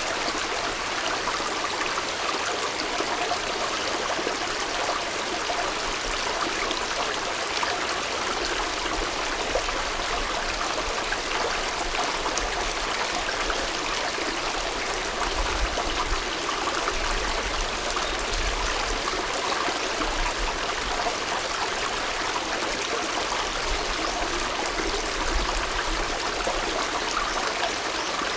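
Mountain headwater stream babbling steadily.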